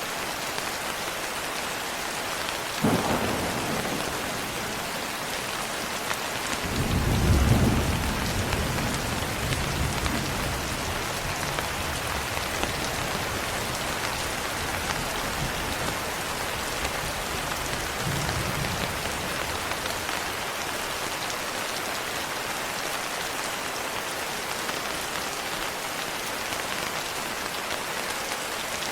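Steady rain with thunder: a sharp crack about three seconds in, then a long low rumble a few seconds later, and a fainter rumble later on.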